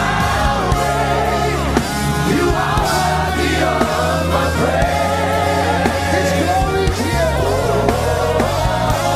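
Live gospel worship music: a band with a steady bass, and a melodic sung line over it.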